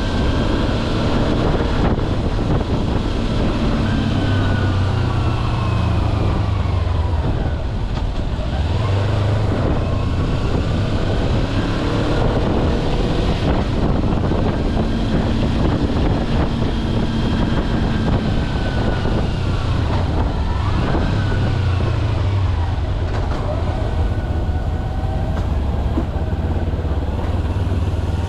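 Kawasaki Versys-X 250's parallel-twin engine running under way, its pitch falling and rising again several times with the throttle.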